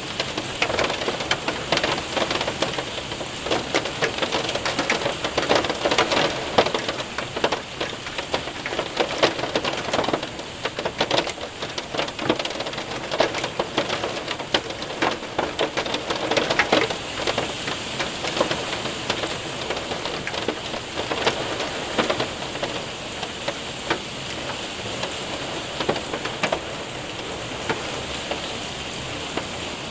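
Hail and rain hitting a window and roof: a steady wash of rain with many sharp ticks from hailstones, thickest in the first half and easing off toward the end.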